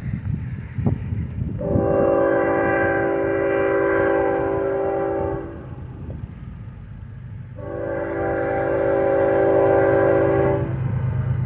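Freight locomotive air horn sounding two long blasts, each a held multi-note chord, over the steady low rumble of the train.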